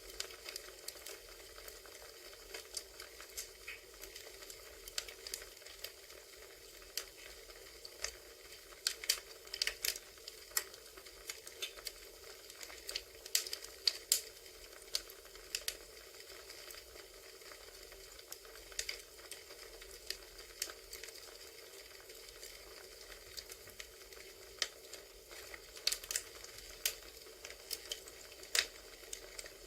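Campfire crackling: irregular sharp pops and snaps, coming in quick clusters now and then, over a steady faint hiss.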